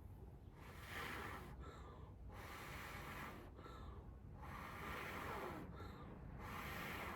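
A person blowing long, steady breaths into a smouldering cotton-pad tinder bundle lit by a char cloth ember, about four blows with short pauses between them, to coax the ember into flame.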